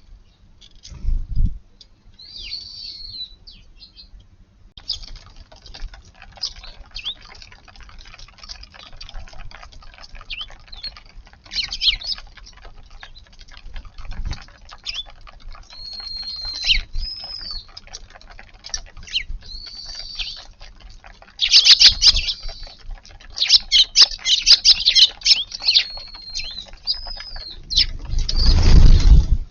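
Eurasian tree sparrows chirping as they feed: short high chirps scattered throughout, thickening into a rapid run of chirps about two-thirds through. Two loud rushing bursts, one a little past the middle and one at the very end, stand out above the chirping.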